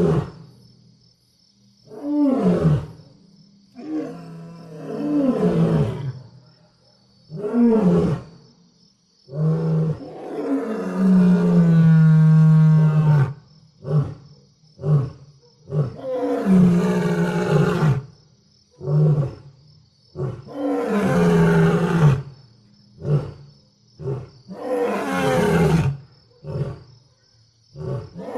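Lion roaring in a run of about fourteen calls, short and long, many sliding down in pitch, with one long drawn-out call about ten seconds in.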